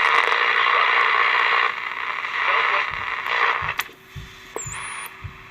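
AM radio hissing with static while tuned between stations. The hiss cuts down sharply about three and a half seconds in, and a faint high whistle sounds briefly near the end.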